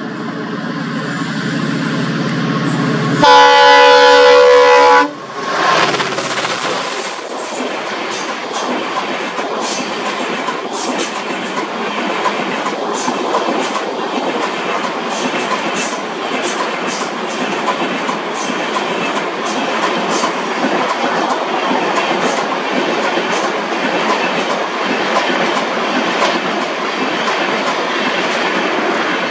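A passenger train's locomotive approaching, its engine growing louder, then one long horn blast about three seconds in, the loudest sound, lasting nearly two seconds. The train then runs past with a steady rumble and its wheels clicking over the rail joints.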